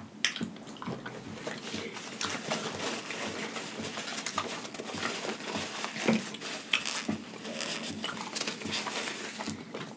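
Close-miked chewing of soft food with the mouth closed: a busy run of small wet mouth clicks and smacks, with a few louder smacks along the way.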